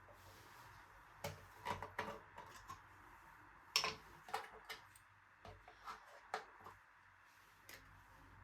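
Irregular light clicks and taps from handling things in a kitchen, about fifteen over several seconds, the loudest just under halfway through, over a low steady hum.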